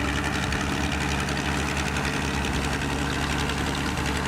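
Fiat 1300 DT tractor's six-cylinder diesel engine running at a steady speed.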